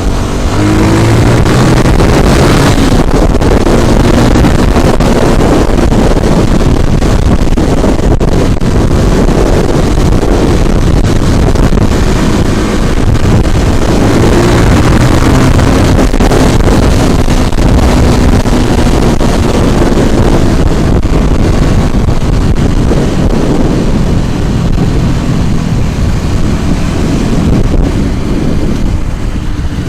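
Wind buffeting the microphone over a motor vehicle's engine while riding, the engine note rising and falling now and then.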